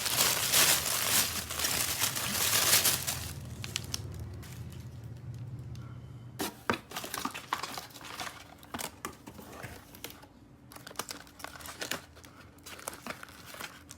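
Toy packaging being crinkled and rustled for the first three seconds or so, then scattered small clicks and taps as the pieces are handled.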